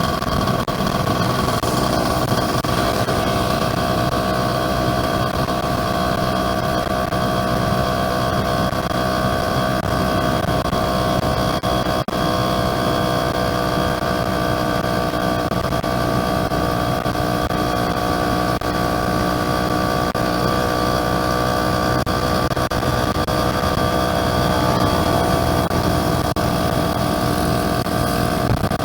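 Yamaha F1ZR two-stroke motorcycle engine running at a steady speed under way, its pitch holding nearly level throughout.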